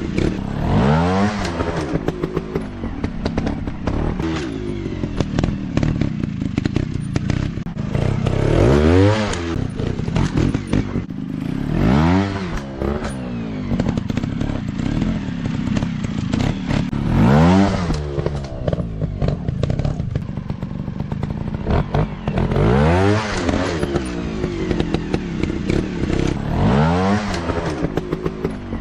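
Dirt bike engines running and revving, the pitch climbing and falling again in about six throttle bursts, with rattling and knocks throughout.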